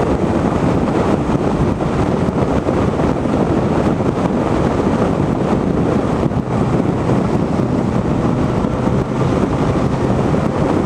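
Wind rushing hard over the microphone on a moving motorcycle, a steady loud noise with the engine running underneath.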